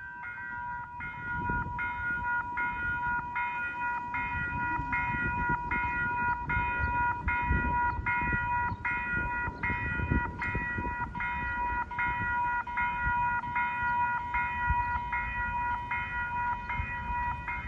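Railroad grade crossing bell ringing at about one and a half strokes a second over a steady tone, while a South Shore Line electric commuter train rumbles up to and through the crossing.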